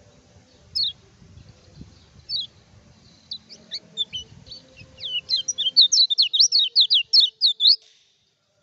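Kecial kuning (lemon-bellied white-eye) singing. Two single falling notes open, then high chirps quicken into a rapid, loud twittering run that cuts off about eight seconds in.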